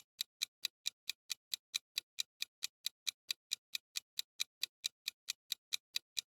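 Quiz countdown timer sound effect: a clock ticking evenly and fast, about four to five ticks a second, marking the time left to guess.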